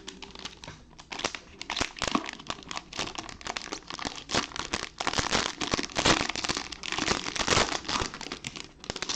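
Plastic trading-card pack wrapper crinkling and tearing as it is ripped open by hand, a dense run of irregular crackles that grows louder in the second half.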